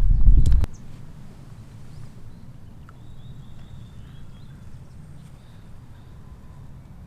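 Wind buffeting the microphone, cutting off suddenly under a second in. After that comes quiet open-air ambience with a low, uneven wind rumble and a short run of faint bird chirps about three seconds in.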